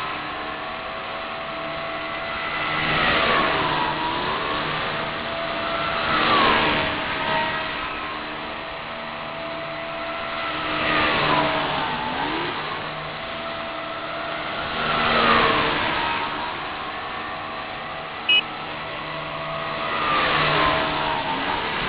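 Align T-Rex 250 SE electric micro RC helicopter flying passes, its motor and rotor whine swelling and dipping in pitch each time it goes by, five times. A short sharp blip about 18 seconds in.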